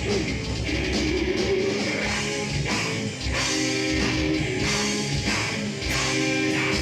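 Live heavy rock band playing: distorted electric guitars over a drum kit keeping a steady beat.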